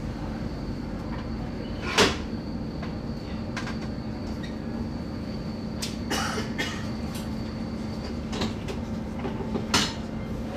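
Steady rumble of rail travel with a faint high whine, broken by several sharp knocks and clacks, the loudest about two seconds in.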